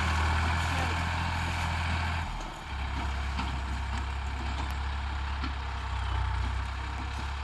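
Tractor diesel engine running steadily, with a brief drop about two seconds in before it runs on.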